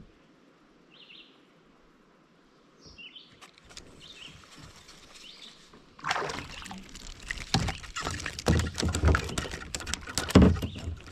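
Water splashing and irregular knocks and rattles against a kayak as a hooked fish is brought alongside and landed. It starts suddenly about six seconds in and stays busy after that.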